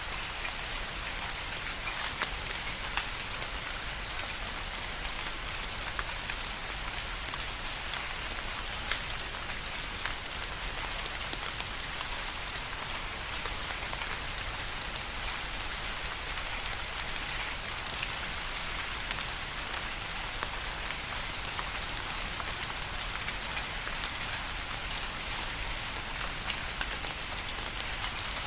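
Steady rain, an even hiss with many individual drops pattering and ticking on a surface.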